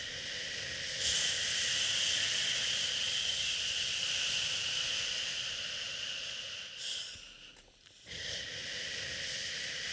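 Long shushing "shhh" sounds, used to soothe a crying baby, over steady hiss. The shush breaks off briefly near 8 s, as if for a breath, then starts again.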